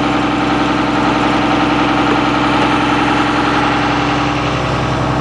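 Cummins ISB straight-six turbodiesel in a 2009 Blue Bird All American front-engine school bus idling steadily. It runs loud and even.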